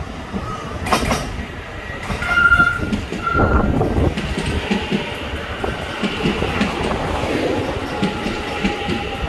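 Hyundai Rotem-built TRA EMU900 electric train pulling into a station and slowing, wheels knocking over the rail joints. Two short squeals come about two and a half and three and a half seconds in, then a steady whine over the rumble as it rolls to a stop.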